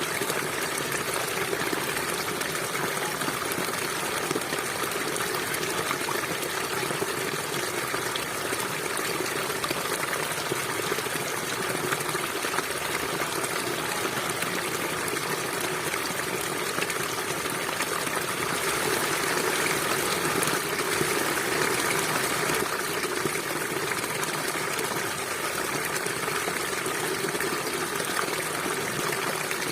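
Small stream of water flowing and trickling steadily, a continuous babble that swells a little past the middle.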